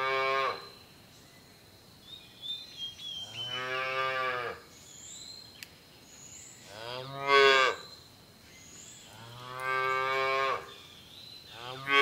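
Calf mooing repeatedly: drawn-out calls of about a second each, a few seconds apart.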